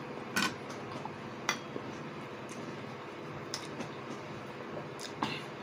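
A person chewing a mouthful of frittata, with a few short wet mouth clicks and smacks, over a steady low hum.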